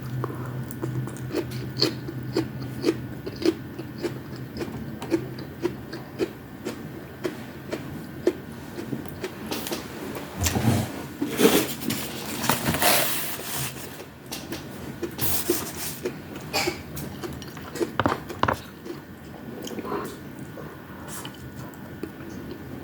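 Close-miked chewing and biting of fried tamban fish and rice: soft mouth sounds about twice a second, with a louder, noisier stretch of crunching and handling in the middle.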